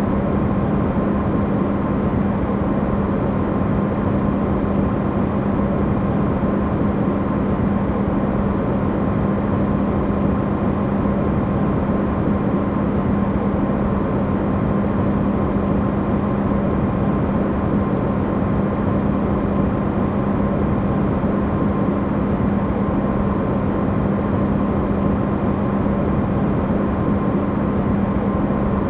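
Amplified recording of an Electrolux refrigerator running: a steady, unbroken hum with a strong low tone under an even wash of noise, played as white noise.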